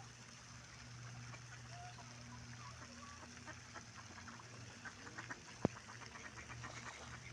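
Wild ducks quacking while being fed, a quick run of short calls in the second half over a steady low hum. One sharp click sounds a little before the end.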